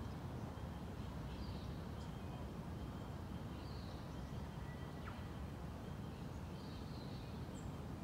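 Birds calling in the distance: a short high call repeats every two to three seconds, with a sharper chirp or two in between, over a low steady outdoor rumble.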